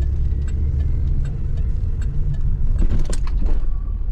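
Pontiac Firebird's engine running, a steady low drone heard from inside the cabin, with faint scattered ticks over it.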